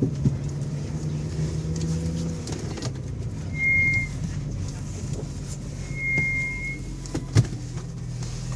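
2000 Volvo S70 engine and road noise heard from inside the cabin while driving; the engine note changes about two and a half seconds in. Two short high-pitched tones sound in the middle, and there is a sharp knock near the end.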